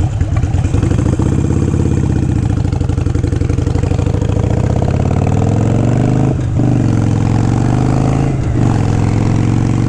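Motorcycle engine running under way, its note climbing in pitch over the first few seconds as it accelerates, then holding steady. There are two brief dips in the sound, about six and a half and eight and a half seconds in.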